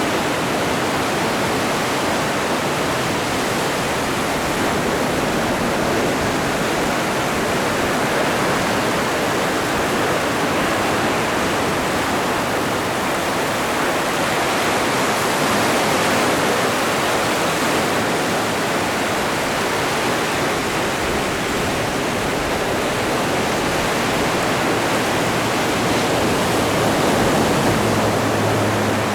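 Atlantic Ocean surf: a steady, unbroken rush of breaking and washing waves, swelling slightly about halfway through and again near the end.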